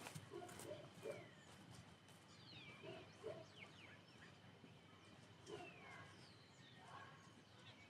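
Faint bird chirps and short whistling calls, some sliding up or down in pitch, over a quiet countryside background.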